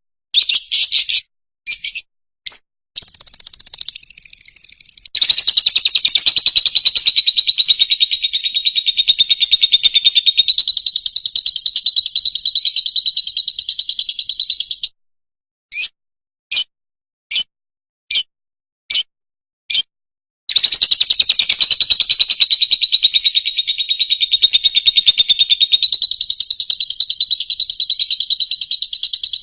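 Fischer's lovebird singing in high, shrill calls. A few short chirps open into a long rapid trill held near one pitch for about ten seconds; then come single chirps evenly spaced, and another long trill starts about two-thirds of the way in.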